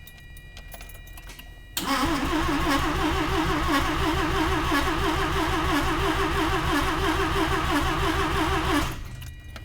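The starter motor cranks a 1982 Mazda RX-7's carbureted 12A rotary engine over, starting about two seconds in, with a steady rhythmic pulsing for about seven seconds before it stops abruptly without the engine catching. The engine has sat unused for over a year.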